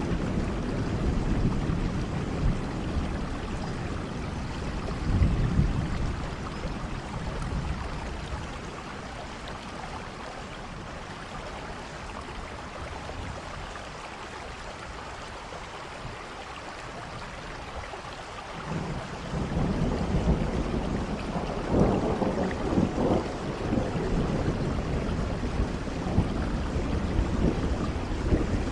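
Steady rain falling, with low rolling rumbles of thunder that swell about five seconds in, ease off through the middle, then return more strongly in the last third.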